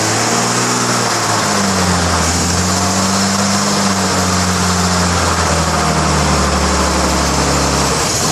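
The 1933 Chevrolet's freshly rebuilt six-cylinder engine running just after catching on its first start in decades. It revs up unevenly at first, then holds a steady speed and settles a little lower after about five seconds.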